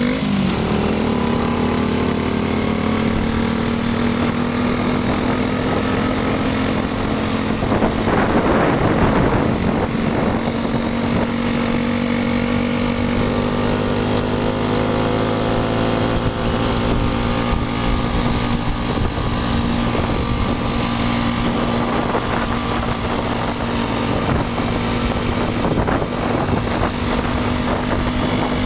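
1965 Honda C320's 50cc four-stroke single-cylinder engine running at a steady idle. About eight seconds in it grows a little louder and rougher for a second or two, then settles back.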